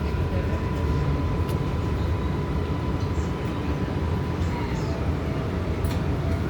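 R188 subway car standing at a station: a steady low rumble and hum from the car's equipment, with a thin steady whine that drops to a lower pitch about four and a half seconds in, and a few faint clicks.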